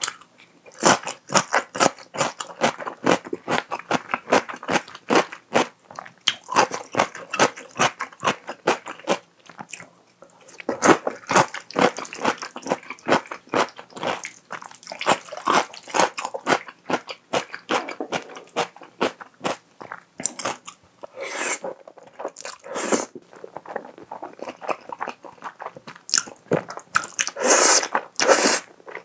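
Close-miked mouth sounds: crunching through a pickled cucumber slice with rapid wet crunches, then chewing and slurping wide flat pasta noodles in a cream sauce, with a few longer slurps near the end.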